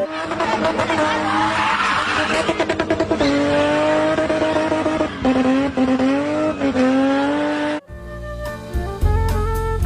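A car with its engine running and tyres squealing, a dense noise with wavering pitch that cuts off about eight seconds in. Music with a steady beat and bass follows.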